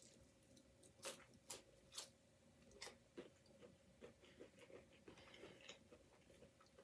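Faint close-miked chewing of a gravy-dipped onion ring: soft crunches and wet mouth clicks, one every half second to a second.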